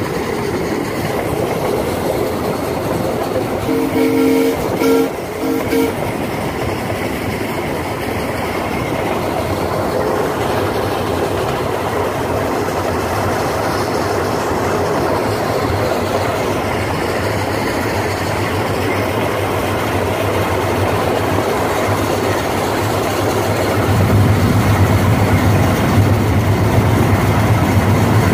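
Miniature-railway train running along the track, heard from aboard, with steady rolling and clattering noise. About four seconds in come a few short signal toots, and near the end a louder low rumble builds up.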